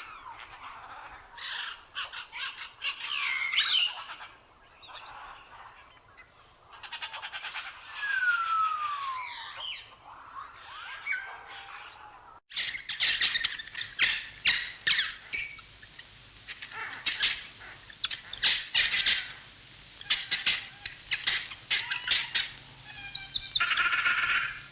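Wild birds calling and singing: slurred whistles and sweeping notes, including one long falling whistle, then partway through an abrupt change to a denser chorus of rapid, sharp chirps.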